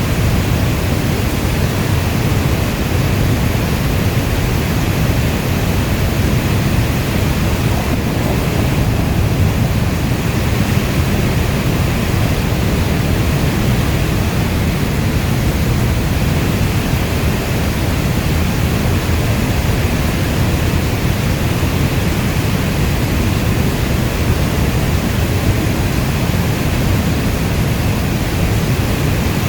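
Steady heavy rainfall: a dense, even rushing noise with a deep low rumble beneath it. There is no thunder or sudden change.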